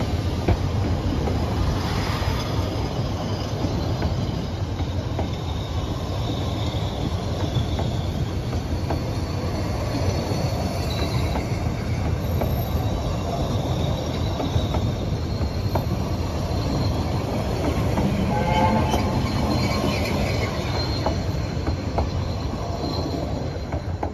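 Narrow-gauge passenger carriages rolling past close by: a steady rumble of wheels on the rails, with thin high wheel squeals now and then, loudest in the middle stretch.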